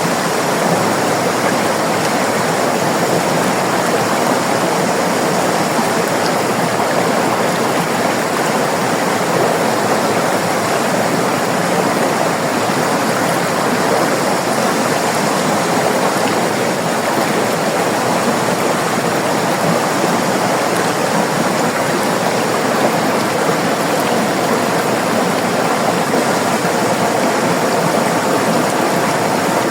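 River water flowing over rocks: a steady, even rush with no breaks or changes.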